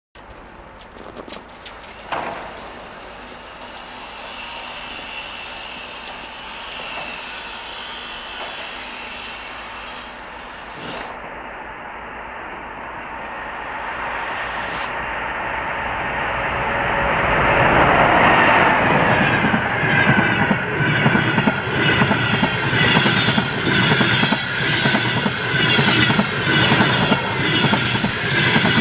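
An EP20 electric locomotive with a passenger train approaching and running through at speed: a rumble and hiss that grows louder to a peak about 18 seconds in, then a fast, even clickety-clack of wheels over rail joints with a steady high whine as the coaches pass. A single sharp knock about two seconds in.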